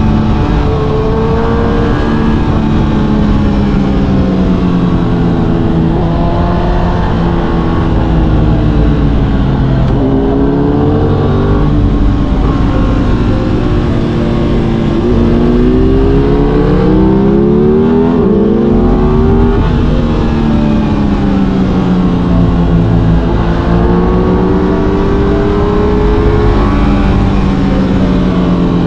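Aprilia RS 660 parallel-twin engine under way, its revs rising and falling several times with the throttle. It climbs highest a little past halfway, then drops back.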